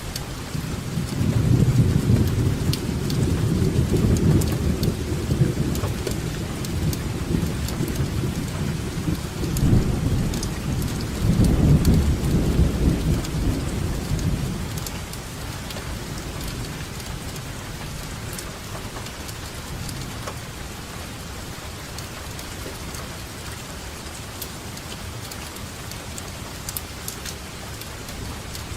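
Steady rainfall with distinct drops hitting a surface, and a long roll of thunder that rumbles in several swells through the first half before fading out, leaving only the rain.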